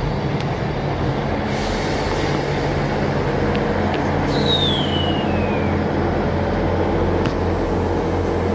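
Class 159 diesel multiple unit's engines running with a steady deep hum, a brief hiss about a second and a half in, and a short falling squeal a little past four seconds in.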